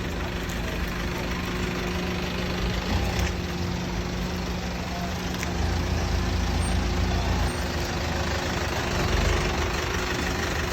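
An engine running steadily, a low unchanging hum.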